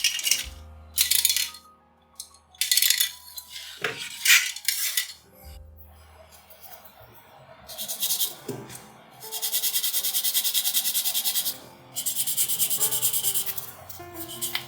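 Plastic model-kit parts being sanded down by hand: a few short strokes, then two longer runs of rapid back-and-forth rubbing in the second half, over soft background music.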